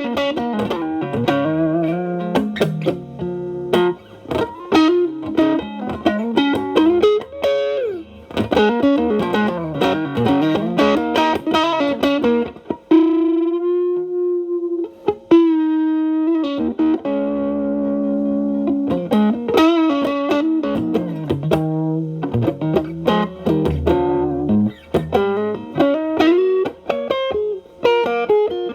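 Telecaster electric guitar played through an MXR Distortion+ stacked with a Boss SD-1 into a Marshall Valvestate clean channel, at the stack's 'clean up' setting: improvised single-note lead lines with string bends. About halfway through, a long bent note is held with wide vibrato before the phrases resume.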